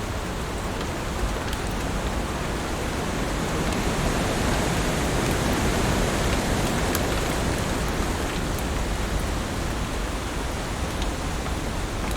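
Heavy rain falling steadily as a dense hiss with faint scattered drop ticks, swelling slightly louder in the middle.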